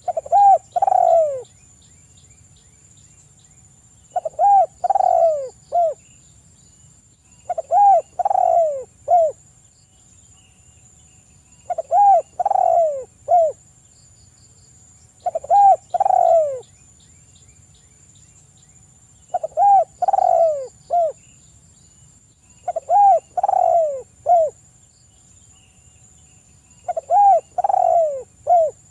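A spotted dove (tekukur) cooing: a phrase of three or four short falling coos, repeated eight times at even intervals of about four seconds.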